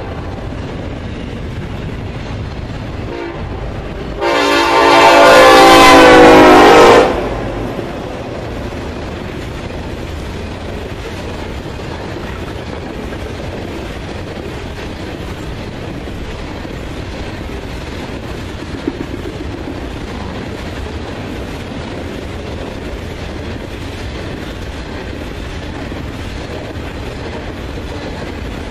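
A train on the line, its locomotive sounding one loud air-horn blast of about three seconds, a chord of several tones. The steady rumble and clickety-clack of the train rolling past continue under and after the horn.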